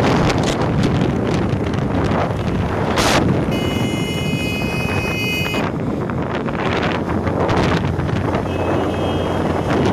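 Wind rushing on the microphone over the steady rumble of a moving vehicle, with a high-pitched horn-like tone for about two seconds midway and a fainter tone near the end.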